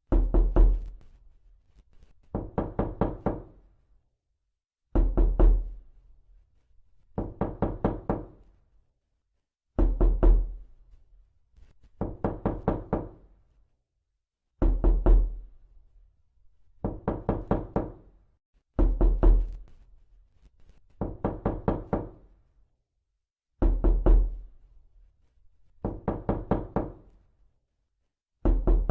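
Repeated knocking: quick bursts of four to six knocks, a new burst about every two and a half seconds.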